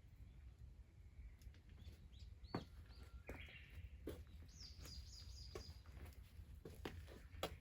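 Faint outdoor ambience with a few small birds chirping, including a quick run of high chirps about halfway through, and scattered sharp clicks.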